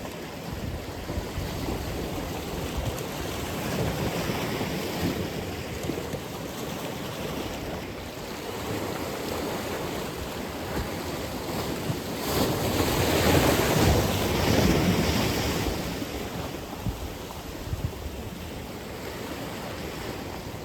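Atlantic Ocean surf: waves washing steadily onto the shore, with one louder breaker surging about halfway through. Wind buffets the microphone throughout.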